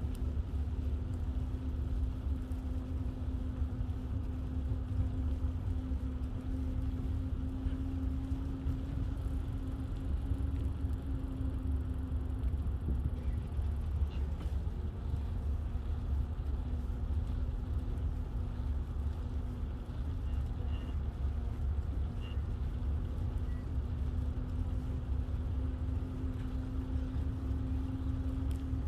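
Steady low rumble of wind and rolling noise while riding a bicycle, with a steady hum that fades in and out.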